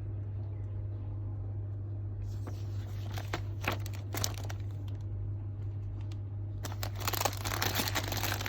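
Crinkling and rustling handling noise, scattered at first and then dense from about two-thirds of the way in, over a steady low hum.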